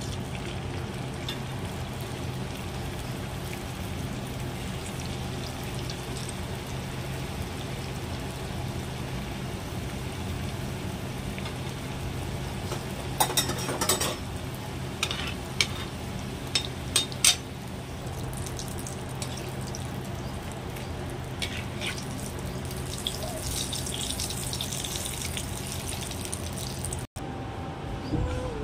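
Samosas deep-frying in hot oil, a steady sizzle over a low steady hum. A few sharp clinks in the middle, like a metal utensil against the pan.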